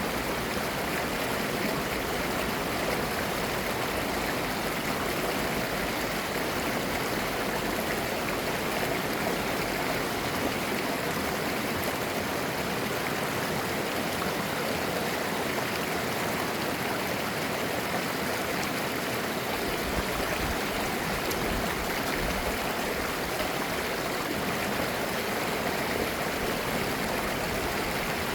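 Mountain stream flowing over rocks, a steady even rush with babbling and gurgling, no pauses or changes.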